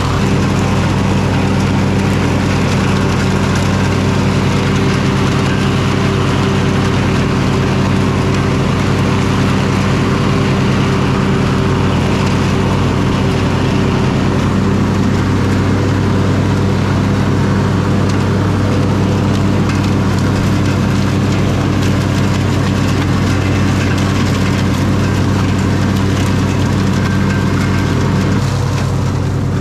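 Simplicity Regent lawn tractor running steadily under mowing load, its engine and spinning deck blades pulling leaves and yard debris up into the rear collection bag.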